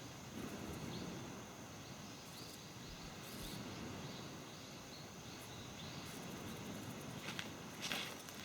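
Insects chirping in a regular series of short high notes, a few each second, over a steady background wash. Two louder rustling noises come near the end.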